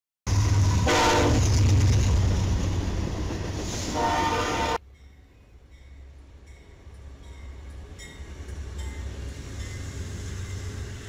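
Loud diesel freight locomotive rumble with two short horn blasts, about a second in and about four seconds in. It cuts off suddenly and is followed by the quieter rumble of an Amtrak diesel passenger train approaching and passing, growing louder.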